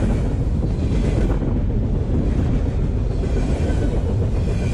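Freight train cars rolling past close by: a steady rumble of steel wheels on the rails, loaded with empty garbage containers, with wind buffeting the microphone.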